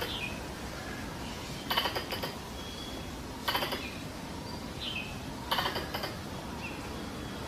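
Squirrel chattering calls, a short rapid rattle repeated three times about every two seconds, used as a mating-season lure call. Brief high falling chirps sound between the rattles.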